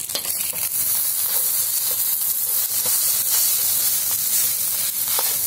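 Squid-ink fried rice sizzling hard in a hot wok, a steady high hiss, with a few light scrapes of a metal spatula stirring it.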